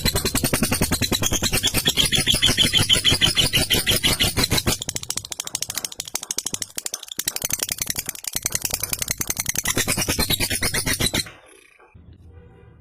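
Lovebird giving its 'ngekek' call: a long, rapid chattering trill of sharp, evenly repeated notes. It breaks off about eleven seconds in.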